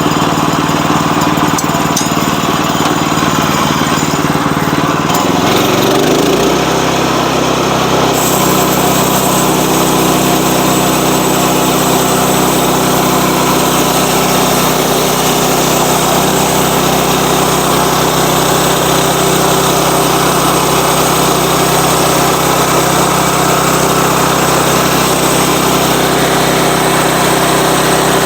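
Sawmill's engine running steadily under power, its tone shifting about five to six seconds in, then holding steady.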